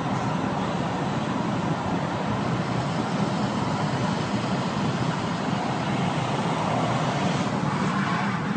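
Steady road noise of a vehicle driving at speed: an even rush of tyres and engine with no sharp events.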